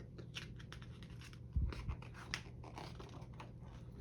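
Paper rustling and light scratchy clicks as a book is handled, its pages being turned, with a soft thump about a second and a half in and another a little later.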